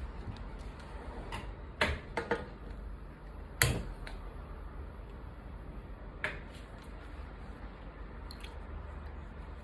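Light clicks and knocks from handling coffee-making gear: about five scattered strokes, the loudest a sharp knock a little past the middle, over a steady low hum.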